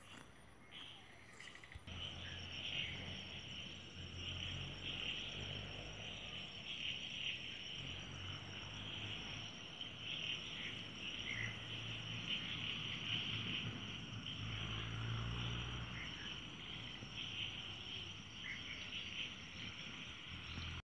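Outdoor chorus of insects trilling steadily and high, with a few short chirps over it and a low rumble that comes in about two seconds in. It cuts off abruptly at the end.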